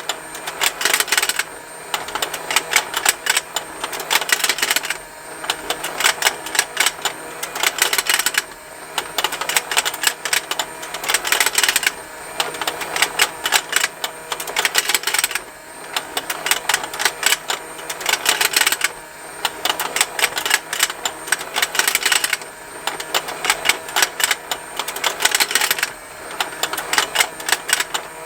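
Battery-powered rotating fishing-game toy running, its small motor humming under continuous rapid plastic ticking and snapping. The clicking comes in stretches of about three seconds, each broken by a brief lull, in a steady cycle roughly every three and a half seconds.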